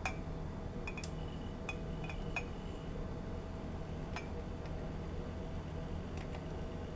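Tableware clinking: about eight light, ringing taps at uneven intervals, most of them in the first two and a half seconds and a few later. A steady low hum runs underneath.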